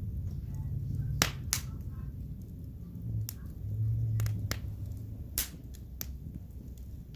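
Wood burning in a fireplace, popping and crackling: irregular sharp pops, the loudest two about a second in and one more past the five-second mark, over a low steady rumble.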